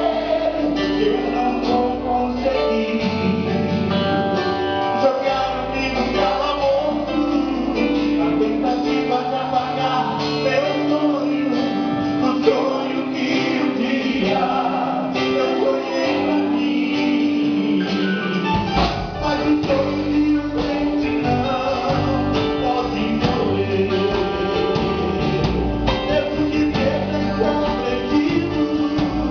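Live gospel band playing a song with singing over guitar and bass. The deep bass end thins out for a stretch and comes back in full after about eighteen seconds.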